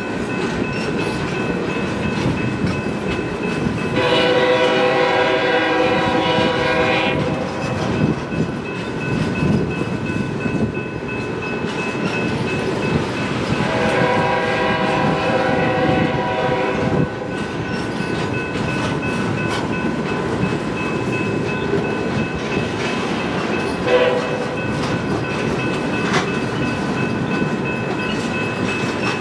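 Empty eight-axle heavy-duty flatcars rolling past, their wheels rumbling and clattering steadily on the rails. A train horn sounds two long blasts, about 4 and 14 seconds in, and a brief one near the end.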